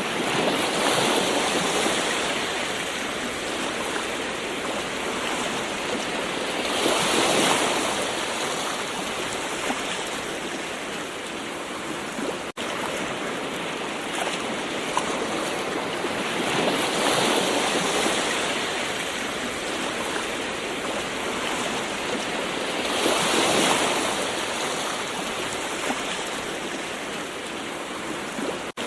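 Gentle ocean waves washing on a shore: a steady wash of surf that swells louder every several seconds as waves break.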